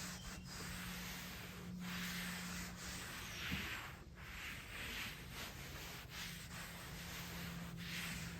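Hands rubbing and pressing the carpet-like Bedrug liner into place, heard as repeated swells of scratchy rubbing over a steady low hum.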